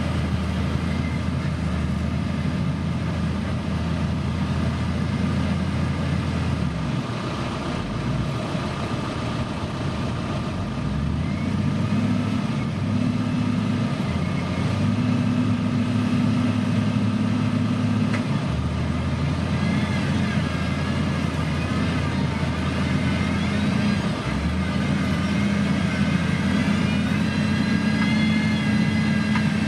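Motor grader's heavy diesel engine running under load, its low note shifting up and down in steps. Through the second half a higher whine rises and falls.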